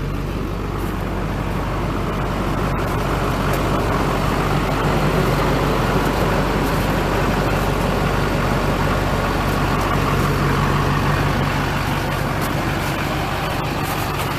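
2005 Chevrolet Silverado 2500HD's 6.6-litre Duramax turbo-diesel V8 idling steadily.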